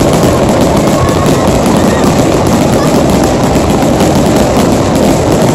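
Fireworks barrage: many shells and fountains going off in quick succession, a dense, unbroken run of bangs and crackling with no pauses.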